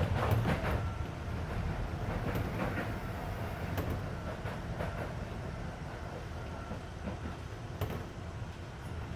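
Interior running sound of a Keisei 3400 series electric train car at speed: a steady low rumble of wheels on rail with scattered sharp rail-joint clicks, under the car's air-conditioning noise.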